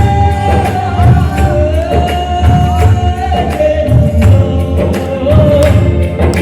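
Song with a lead vocal holding long, sliding melodic notes over a band with a steady beat of bass drum and percussion.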